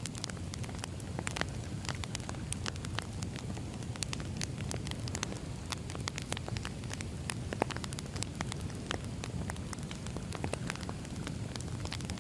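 Firewood burning: a steady low rush of flame with frequent small, irregular crackles and pops from the wood.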